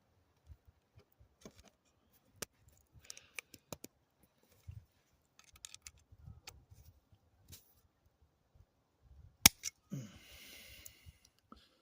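Scattered light clicks and taps of a small metal latch cover being handled while its mounting tabs are bent, with one sharp loud click about nine and a half seconds in and a brief rustle just after.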